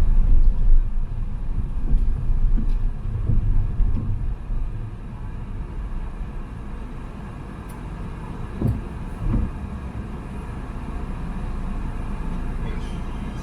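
A car driving on a city road: a steady low rumble of engine and tyres, heavier for the first few seconds and then settling. There are two short low thumps close together about two-thirds of the way through.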